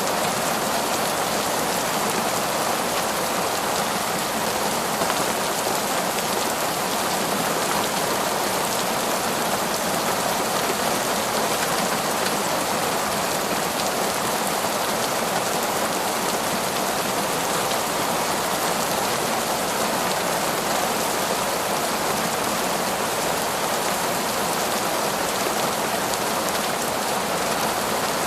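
Heavy, steady downpour of rain falling in a forest, an even, unbroken hiss of drops on leaves and ground.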